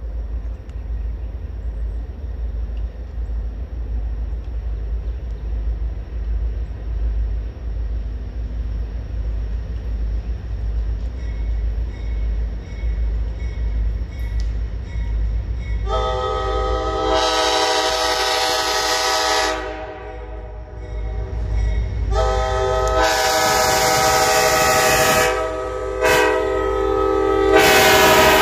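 Low rumble of an approaching train, then a diesel locomotive's multi-chime air horn. The horn blows long, long, short, long: the standard grade-crossing signal.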